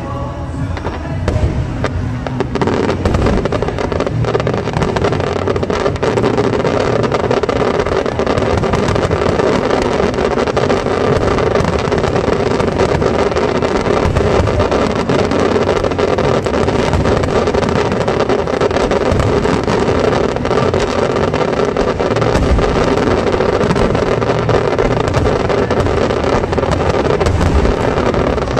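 Dense, continuous fireworks barrage: an unbroken rumble of bursts with constant crackling, which thickens about two and a half seconds in and stays loud throughout.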